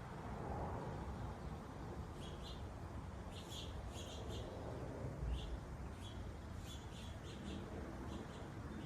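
Small wild birds chirping at backyard feeders: a scatter of short, high chirps, some in quick pairs and runs, starting about two seconds in, over a steady low background noise.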